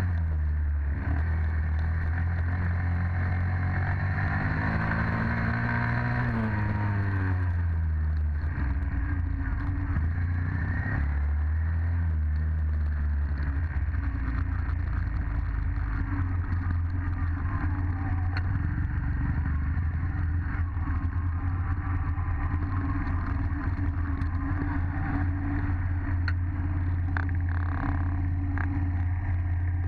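Dirt bike engine running steadily; its revs climb a little and then drop away about six seconds in, after which it holds a low, even note.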